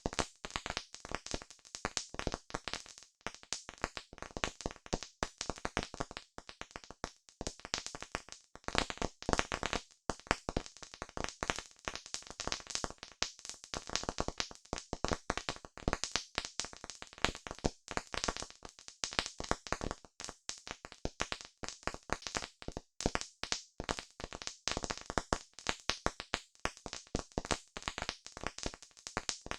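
Wood campfire crackling, with dense, irregular sharp pops and snaps, several a second.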